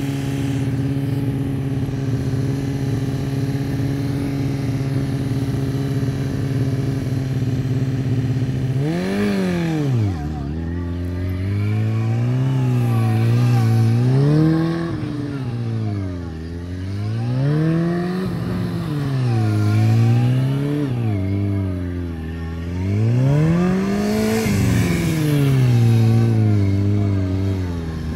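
Yamaha R6 motorcycle's inline-four engine running at a steady pitch for about nine seconds, then revving up and down over and over, roughly every two seconds, as the bike accelerates and brakes through tight turns around cones.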